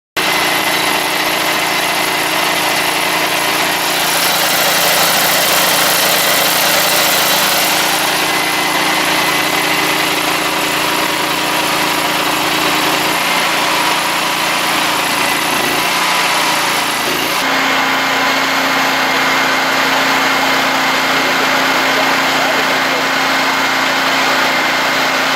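An engine running steadily, with a loud hiss over it. Its note changes about two-thirds of the way through.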